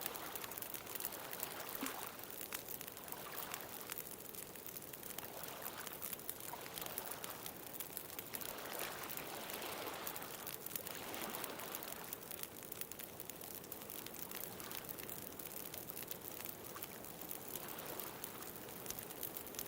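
Bonfire crackling with frequent small sharp pops, over gentle ocean waves washing in and out in soft swells.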